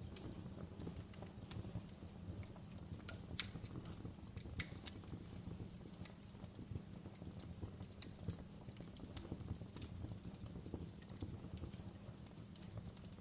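Wood fire crackling in a fireplace: irregular small pops and snaps over a low steady rumble. One sharp pop about three and a half seconds in is the loudest.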